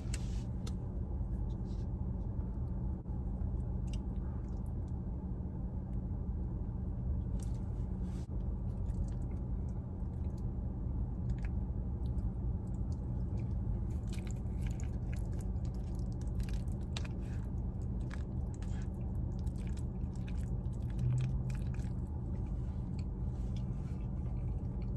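Close-up chewing and eating of mac and cheese, with many small scattered clicks of the fork and the mouth, busiest in the second half, over a steady low hum.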